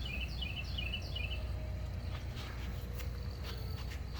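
A small bird singing a quick series of short down-slurred chirps, about four in the first second and a half, over a steady low rumble.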